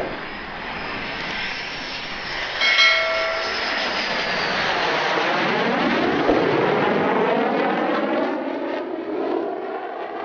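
Jet noise from the KF-21 Boramae fighter's twin General Electric F414 turbofan engines as it goes by, a steady rush with a sweeping, phasing sound through the middle. A brief steady tone sounds about three seconds in.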